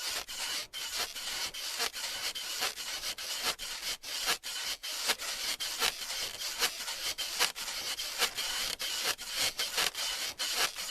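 Something rubbed or scraped back and forth in quick repeated strokes, a dry hissing rasp about three strokes a second.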